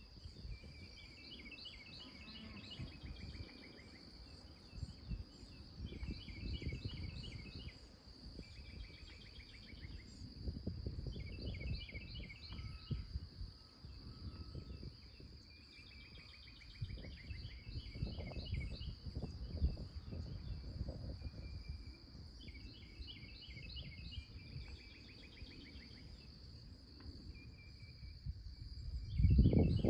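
Woodland dawn sounds: a songbird repeats short chirping song phrases every few seconds over a steady high-pitched insect drone. Low rumbling noise comes and goes and is loudest near the end.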